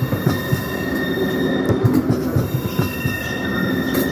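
PKP Intercity ED250 Pendolino electric train rolling slowly into the station past the platform. Its wheels knock irregularly over rail joints and points under a steady rumble, with a thin, steady high squeal from the wheels.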